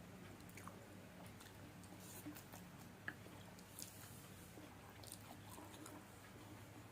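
Faint chewing of fried noodles, soft wet mouth sounds with a few small clicks, over a low steady room hum.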